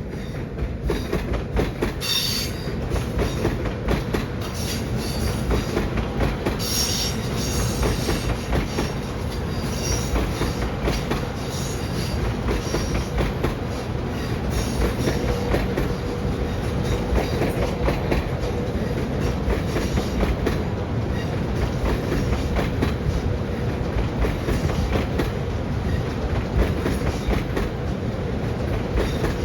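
A train rolling past, its wheels clattering steadily over the rails, with brief high wheel squeals about two and seven seconds in.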